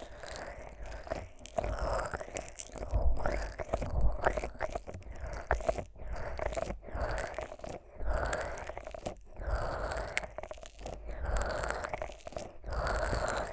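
Fingers coated in thick Vaseline rubbing and massaging the silicone ears of a 3Dio binaural microphone, making sticky, squelching sounds in irregular strokes with short pauses. Now and then a low, muffled thump comes as an ear is pressed.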